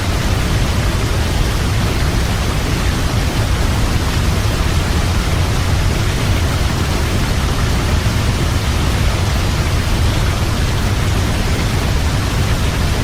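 Waterfall: a steady, unbroken rush of falling water with a deep low rumble under it.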